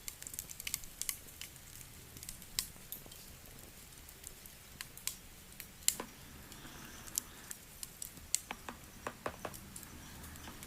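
Wood fire crackling, with sharp, irregular pops and snaps over a low steady hiss.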